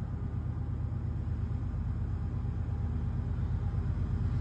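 Diesel locomotive engine of an approaching CSX freight train running with a low, steady hum that grows slowly louder.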